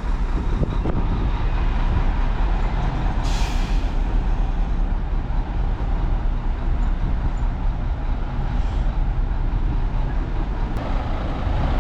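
Heavy diesel earthmoving machinery running steadily with a low rumble, with a short hiss about three seconds in.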